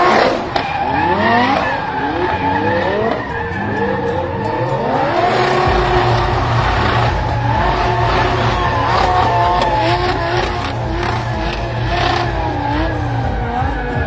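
Lamborghini Huracan drift car's engine revving in quick rising sweeps, then held high and wavering as the tyres squeal and skid through a drift. A heavier low rumble comes in about halfway through.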